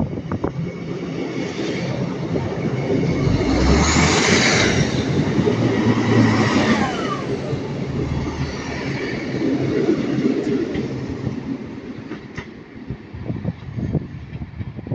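Diesel multiple-unit trains moving through a station: engine running with wheel and rail noise, loudest as a unit passes close about four to seven seconds in, then fading as the train is farther off.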